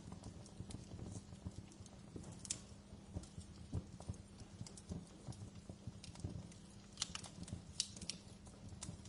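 Wood fire in a fireplace crackling, with irregular sharp pops and snaps over a low steady rumble of flame; a few louder pops come about seven to eight seconds in.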